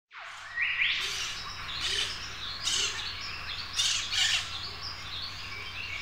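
Several birds calling over a steady background of other birdsong, with a louder call repeating about once a second.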